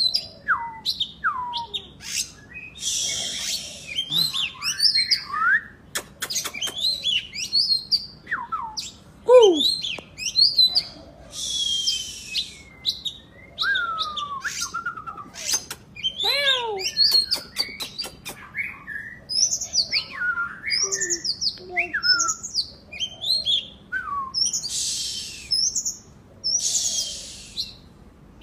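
Oriental magpie-robin (kacer) singing continuously in full song. The song is a varied run of whistled notes sliding up and down, with fast trills and several harsh, scratchy bursts.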